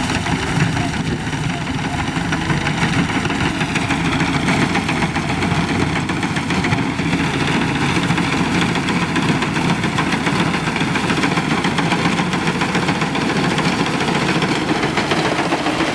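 Tractor engine running steadily under load, driving an attached wheat thresher: a continuous, even machine din.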